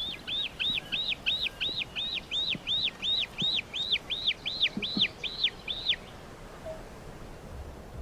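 A bird calling: a rapid series of high, arched whistled notes, about three a second, that stops about six seconds in.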